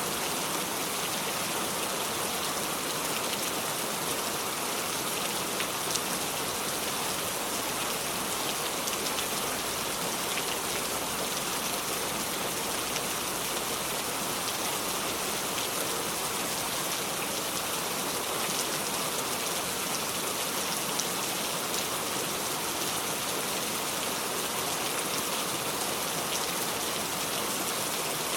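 Steady heavy rain falling and pattering on surfaces, a dense even hiss of drops with no thunder.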